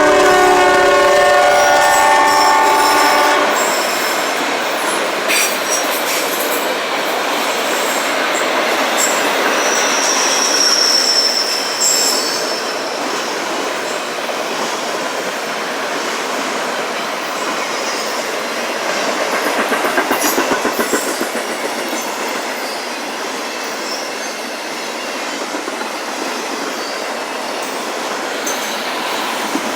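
Freight locomotive's horn sounding a chord that cuts off about three seconds in, then a CSX autorack freight train rolling steadily past, with a brief high wheel squeal near the middle and a stretch of rhythmic wheel clicks over rail joints later on.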